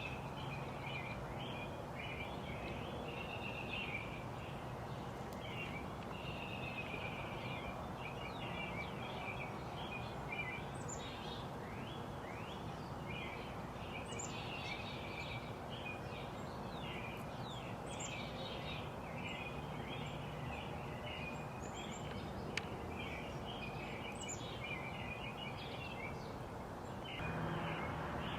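Many small birds chirping and twittering continuously in a dense chorus of short, high notes, over a steady background rumble. The background noise grows louder near the end.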